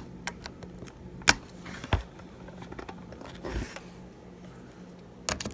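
A few sharp clicks and light taps from small hand tools and tiny screws being handled during an iPhone repair, the loudest about a second in and a duller knock past the middle, over a faint steady low hum.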